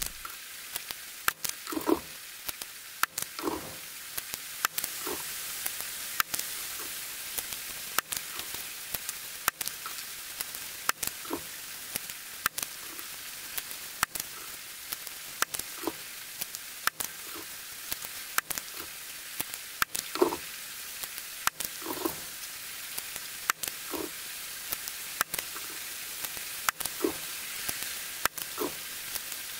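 Heavy rain pouring down: a steady hiss, with frequent sharp drip ticks and taps of water landing close by.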